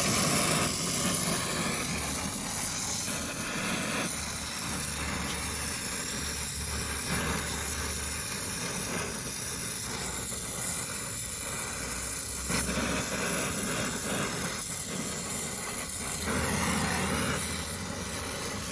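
Brazing torch flame hissing steadily as it heats copper air-conditioner pipe for a joint, swelling a little in level now and then.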